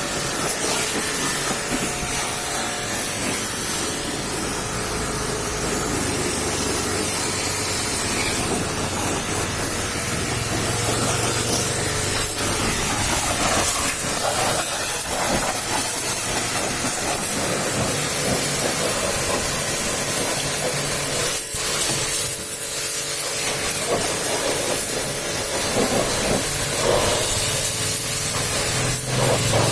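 High-pressure washer jet spraying water onto a truck, a steady hiss with a constant hum underneath.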